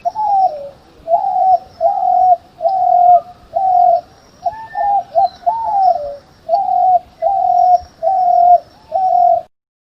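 A bird calling a long series of about a dozen similar mid-pitched notes, a little over one a second, that cuts off suddenly near the end.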